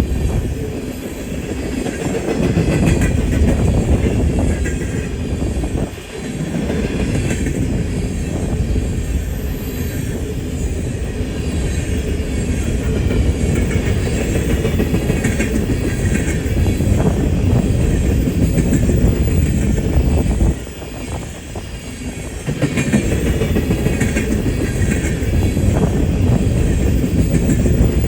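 Loaded BNSF coal train rolling through a curve: a steady heavy rumble of freight car wheels on the rails, with clicking over rail joints and faint high wheel squeal at times. The level drops briefly about three-quarters of the way through, then comes back.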